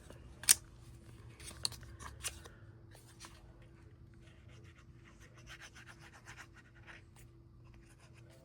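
Paper and craft materials being handled on a work surface: soft rustling and rubbing with a few sharp clicks, the loudest about half a second in.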